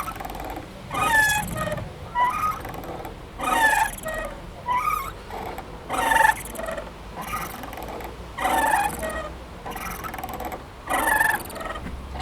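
Playground swing creaking rhythmically as it swings back and forth: a squeal with a sliding pitch on each stroke, about one every second and a quarter, over a low steady hum.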